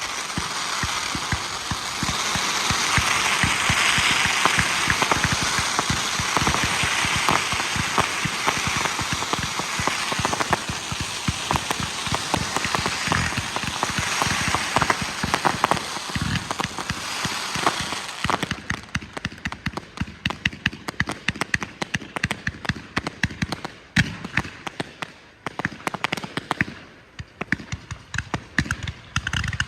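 Low-noise fireworks going off: a dense, steady crackling and hissing that, about eighteen seconds in, thins into many quick separate pops and cracks, with no big bangs.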